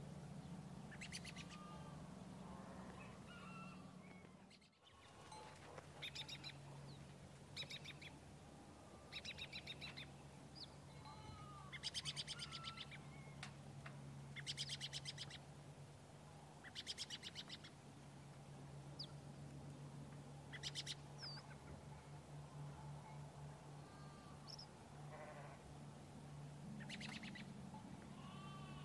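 Birds chirping, with short rapid high-pitched trills repeating every few seconds and a few single chirps, over a steady low hum.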